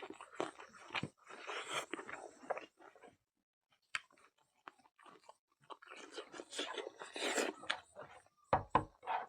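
Close-miked chewing and crunching of food in the mouth: irregular wet clicks and crunches, with a short pause about three seconds in, then more chewing and a couple of dull thumps near the end.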